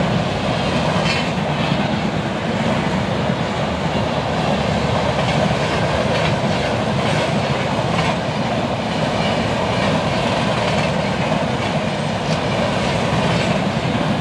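Passenger train coaches rolling past, a steady rumble of steel wheels on the rails with occasional clacks over rail joints.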